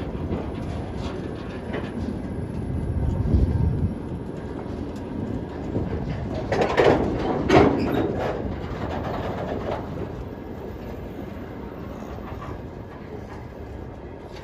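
Freight train of tank wagons rolling past, wheels clattering over the rail joints, with a few louder clanks about halfway through. It gradually gets quieter toward the end.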